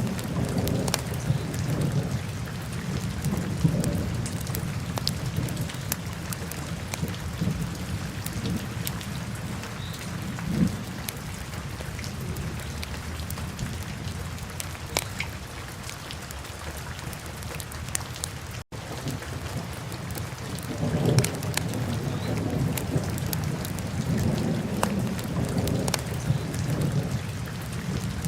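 Wood fire burning in a fireplace: a low, steady rumble that swells and eases, with scattered sharp crackles and pops. The sound cuts out for a split second about two-thirds of the way through.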